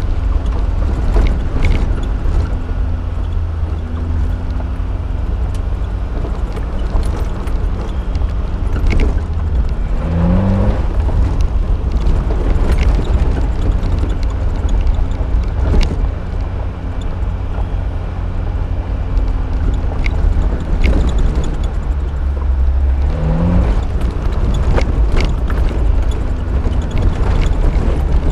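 Suzuki SJ413's 1.3-litre four-cylinder engine running under way over a rough dirt track, a steady low drone whose revs rise quickly twice, about a third of the way in and again past three-quarters. Scattered knocks and rattles come from the body jolting over bumps.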